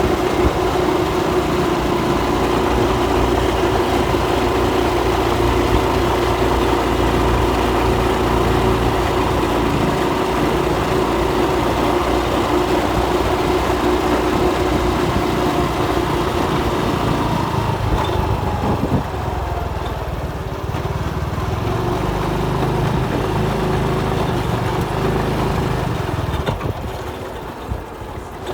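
Motorcycle engine running steadily while the bike is ridden. About eighteen seconds in the engine note drops lower as it eases off.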